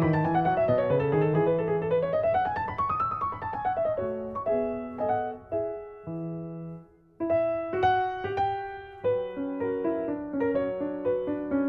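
Solo piano music: a quick run of notes climbing and falling, then slower single notes, a short pause about seven seconds in, and the playing resuming.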